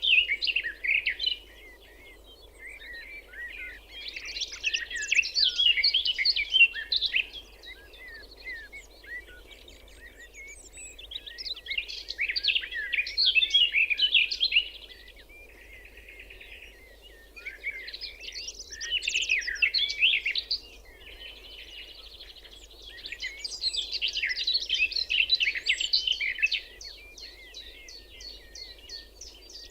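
A songbird singing quick, warbling phrases of a few seconds each, with short pauses between them, over a faint steady background hum.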